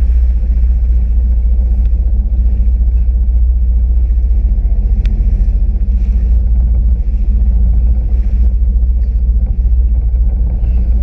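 Steady, loud low rumble of a Sea-Doo RXP-X 260 jet ski under way.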